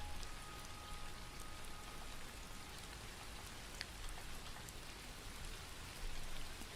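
Steady rain: an even hiss with scattered sharper drops ticking through it. The last notes of a sustained piano chord fade out during the first couple of seconds.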